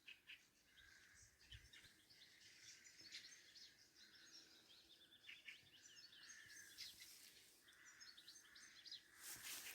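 Several wild birds singing at once, faint: a dense mix of short high chirps and trills. There is a brief rush of noise near the end.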